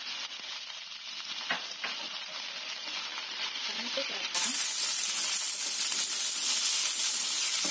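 Chicken wings, shallots, garlic and ginger sizzling in hot oil in a non-stick frying pan while a slotted spatula stirs them, with a few sharp taps of the spatula on the pan. About halfway through, the sizzle suddenly gets louder and brighter and stays that way.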